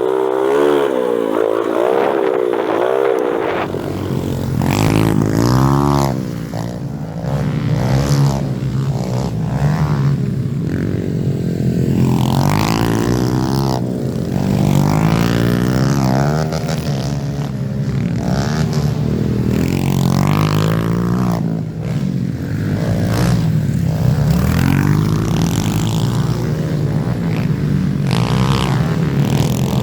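Small four-stroke single-cylinder pit bike engine being ridden hard, its pitch rising and falling over and over with throttle and gear changes. A deeper low rumble joins about three seconds in.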